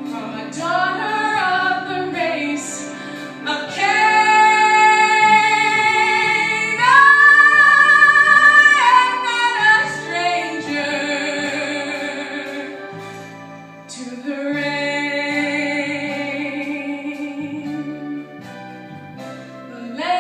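A woman singing a musical-theatre ballad solo over instrumental accompaniment, with long held notes. She builds to a loud, long held high note about seven seconds in, then eases back down.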